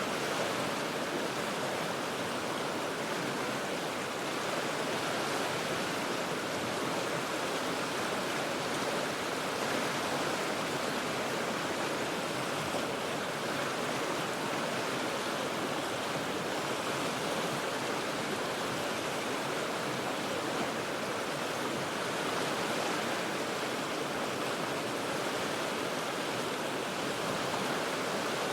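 River water rushing steadily over rocks: an even, unbroken noise with no single events.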